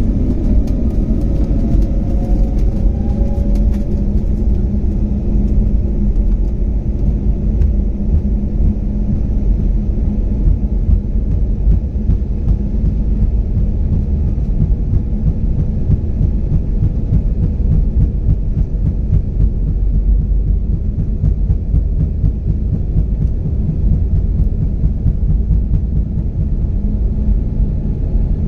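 Jet airliner taking off, heard from inside the cabin: a loud, steady rumble of engines at takeoff power and wheels on the runway, with an engine whine rising in pitch over the first few seconds as the engines spool up.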